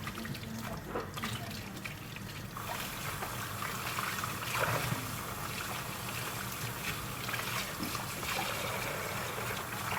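Running water splashing over raw chicken pieces as they are washed by hand, with small knocks of the pieces and bowl. The flow fills out and grows a little louder about two and a half seconds in.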